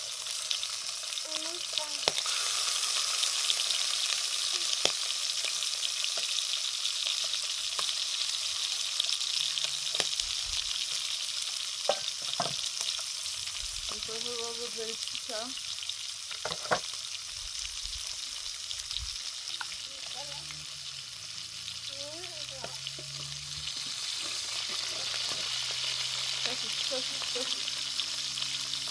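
Food frying in a pan, a steady sizzle with a few sharp clicks scattered through it.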